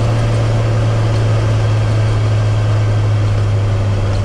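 Cessna 185 Skywagon floatplane's flat-six piston engine and propeller droning steadily at a constant power setting while taxiing on the water after landing.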